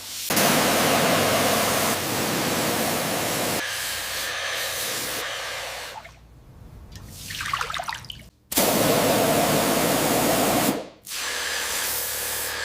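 Spray hissing in three long bursts, each starting and cutting off abruptly, with short gaps between.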